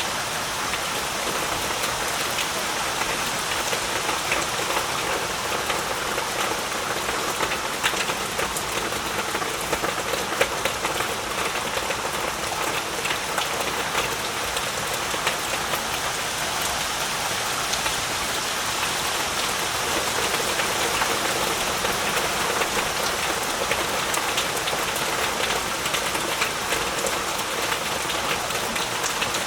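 Heavy rain falling steadily, a continuous hiss dense with the patter of individual drops on surfaces.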